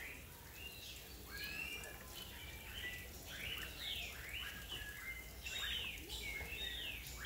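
Several birds chirping and calling in a dense run of short, quickly sweeping notes that overlap one another.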